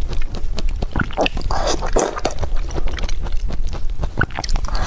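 A person chewing food close to the microphone, with wet mouth sounds and many short clicks.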